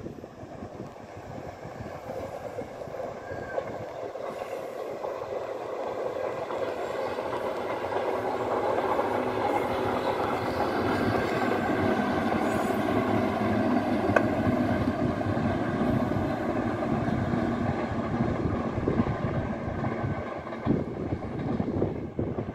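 A 415 series train passing on the rails, its wheels and running gear growing louder to a peak about halfway through and then fading as it moves away.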